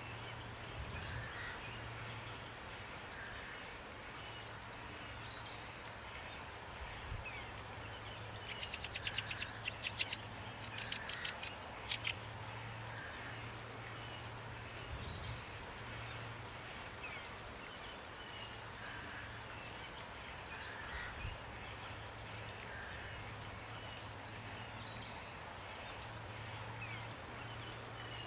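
Songbirds calling: many short high chirps and whistles, with a rapid rattling trill about nine seconds in and again about eleven seconds in, over a steady hiss of rain. A low hum comes and goes underneath.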